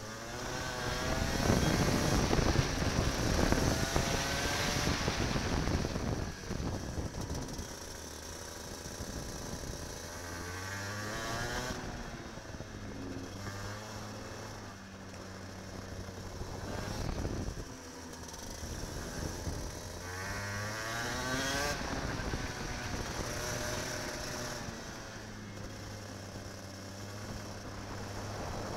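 Kart engine heard from on board, revving up several times as it accelerates and dropping back as it eases off, with a rush of noise that is loudest in the first few seconds.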